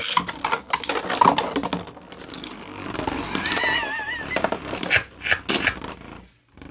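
3D-printed Beyblade tops spinning and clashing in a plastic stadium: a rapid series of sharp clacks and scrapes, with a wavering whine about halfway through. The round ends in a burst, with the clatter dying away just before the end.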